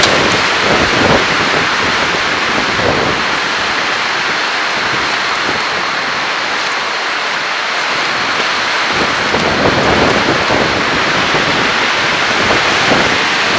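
Strong wind blowing hard across the campsite and buffeting the microphone in low rumbling gusts. It eases for a few seconds in the middle and picks up again after about nine seconds.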